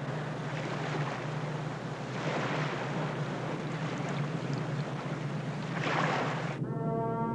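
Sea swell and surf washing in surges, with wind noise and a steady low hum underneath. Near the end it cuts abruptly to held musical notes.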